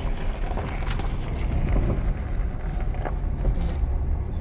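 Car creeping slowly along a rough lane: a steady low rumble of engine and tyres, with scattered small crackles and knocks.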